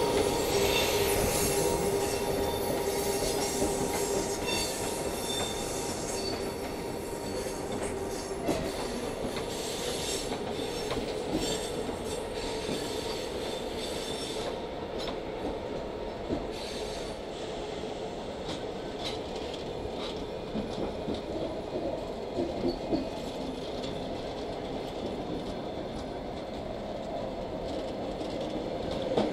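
Passenger carriages of a departing train rolling slowly past, their wheels squealing on the rails at first, then settling into a steady rolling sound with a few clicks over the rail joints in the second half.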